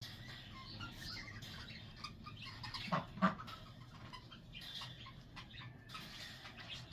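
Birds chirping: many short, overlapping chirps throughout, with two louder, sharper sounds close together about three seconds in.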